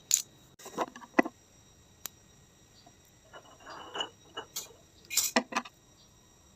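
Hard parts being handled while a hair dryer is repaired: a series of sharp clicks and knocks, loudest about a second in and again near the end, with a short scratchy rustle just past the middle.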